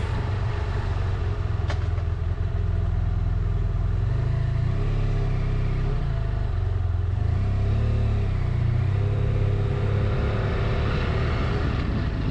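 BMW F800GT's parallel-twin engine running under way, its note rising and falling twice, about five and eight seconds in, as the speed changes.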